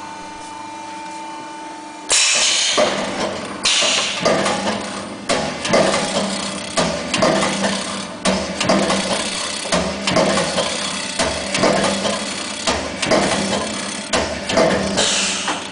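A CNC hydraulic travelling-head die-cutting press running. A steady hum comes first; then, from about two seconds in, a quick even series of cutting strokes follows at roughly two a second, each one a knock, with bursts of hiss at the start of the run and near the end.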